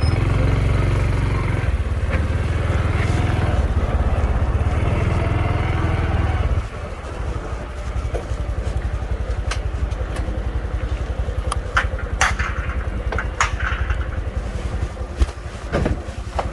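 Honda Trail 125 motorcycle's single-cylinder engine running, dropping to a lower, quieter note about six and a half seconds in. A few sharp clicks come near the end.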